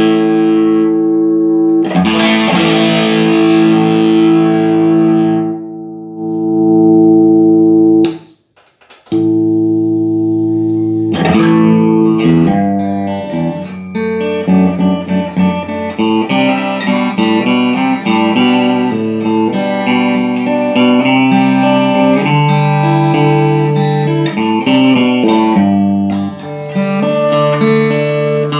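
Electric guitar played through a 2010 Vox AC30HW2 all-valve amp being sound-tested after repair of cold solder joints on its pots and misplaced grid stoppers: a sustained chord rung out and re-strummed, a brief silence about eight seconds in, then a run of picked single notes and arpeggios.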